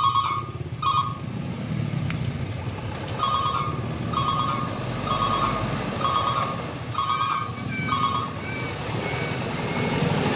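Truck reversing alarm sounding a string of short, evenly pitched beeps, about one a second, that stop about eight seconds in, over a truck engine running.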